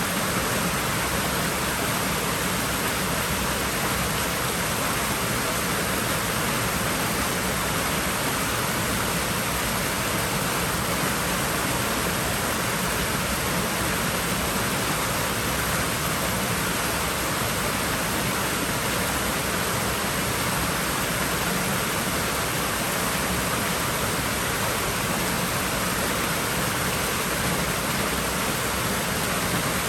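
Steady, unbroken rush of water in a swimming pool.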